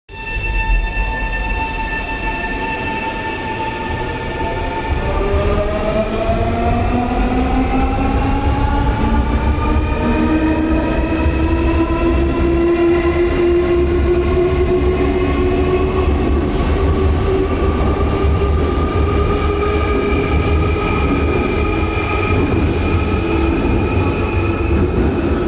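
Semboku Rapid Railway 9300 series electric train pulling away: the VVVF inverter and traction motors hum with fixed tones for about five seconds, then whine steadily rising in pitch as the train accelerates, over a constant low rumble of the wheels on the rails.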